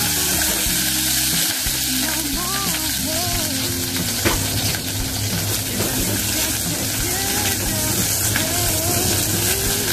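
Sliced ginger and chopped garlic sizzling in hot oil in a small pot, stirred with a ladle, with a steady hiss throughout. A single sharp knock comes about four seconds in.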